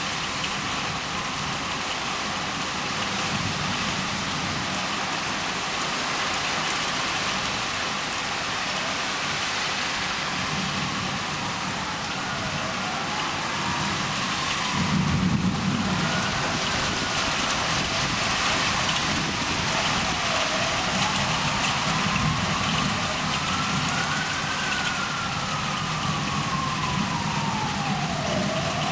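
Steady heavy rain falling, with a low roll of thunder about halfway through. From a little before the middle a siren wails slowly up and down in the distance behind the rain.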